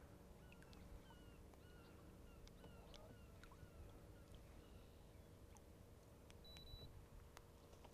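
Faint bird calls: a run of short, falling notes, about two a second, that stops about halfway through.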